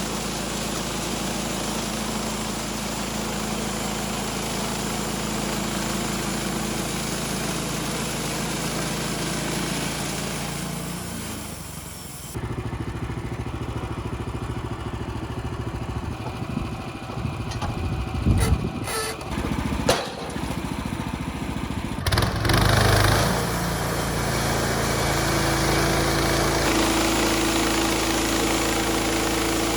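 Engine running steadily, its sound changing abruptly about twelve seconds in. A few sharp knocks come near the middle, a louder burst follows shortly after, and then the engine runs steadily again.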